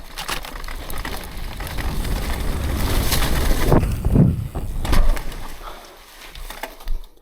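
Mountain bike rolling fast down a dirt run-in, with wind rushing over the microphone that builds as speed rises, then a couple of thuds about four and five seconds in as the bike hits the jump and lands.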